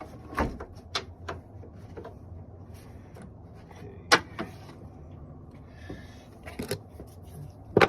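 Irregular clicks and clunks of hand tools and parts being handled, with one sharp knock about four seconds in, over a low steady hum.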